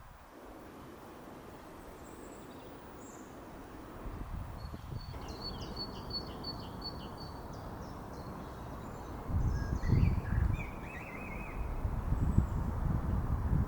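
Wild birds calling: a quick run of short, high notes about four to seven seconds in, then a warbling call near eleven seconds. Twice in the second half, bursts of low rumble are louder than the birds.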